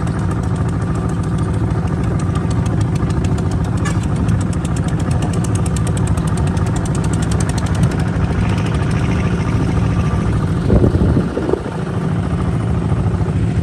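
Kubota RT 140 DI single-cylinder diesel engine running steadily with a rapid, even chugging beat, with a short louder burst about eleven seconds in.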